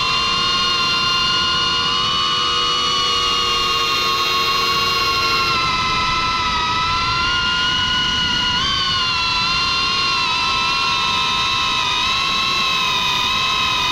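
FPV quadcopter's brushless motors and propellers whining, several close pitches heard together that drift up and down with throttle, with a quick rise in pitch about two-thirds of the way through.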